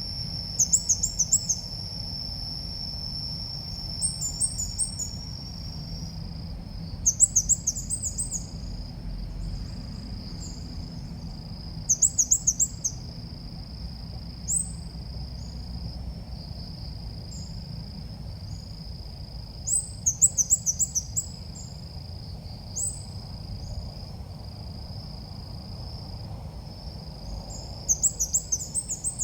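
Red-whiskered bulbul calls used as a lure to call the birds in: short bursts of quick, high chirps repeated every few seconds, over a steady high-pitched whine.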